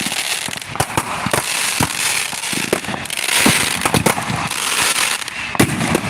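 Fireworks going off in quick succession: many sharp bangs over crackling, with a dense burst of crackle about halfway through and one loud bang near the end.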